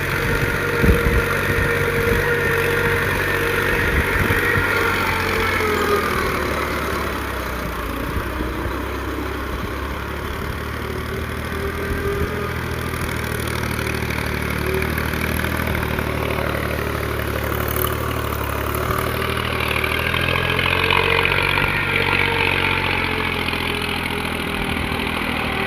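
Mahindra tractor's diesel engine running steadily at low revs, with a whine that drifts up and down in pitch. A few knocks come in the first second.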